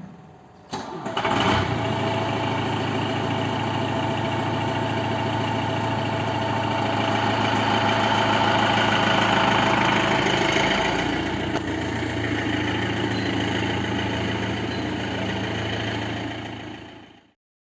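Tata 407 truck diesel engine in a custom Bolero-bodied mini truck starting up about a second in, then running steadily at idle. The sound fades out near the end.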